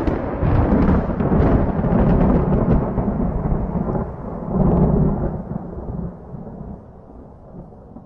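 A thunderclap rolling on as a loud, crackling rumble, swelling again about five seconds in and then dying away.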